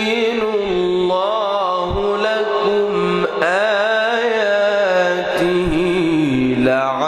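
A male reciter chants the Quran in a melodic style, holding long, ornamented notes with wavering trills. There is a short break and a fresh phrase about three seconds in.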